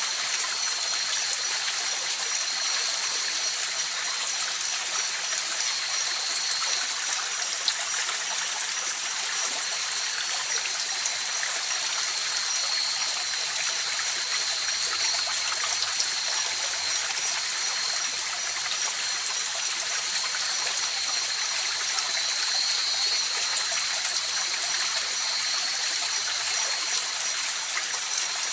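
River water flowing and rushing steadily over stones, an even hiss with no breaks. Two thin, steady high tones run over it.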